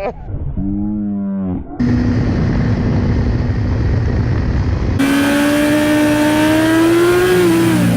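Motorcycle engine and road noise from onboard recordings, cut together: first a steady engine drone, then from about five seconds in a louder engine whose pitch climbs slowly as it accelerates and drops back near the end.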